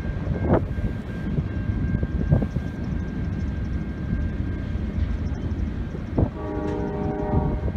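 Freight train cars rolling past, a steady heavy rumble of steel wheels on rail with a few sharp clanks. A brief pitched tone sounds about six seconds in and lasts about a second.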